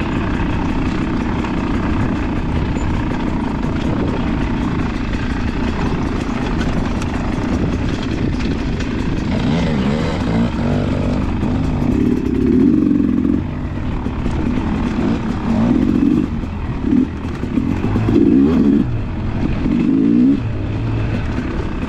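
Dirt bike engine running while riding off-road. In the second half it revs up and drops back several times in quick succession.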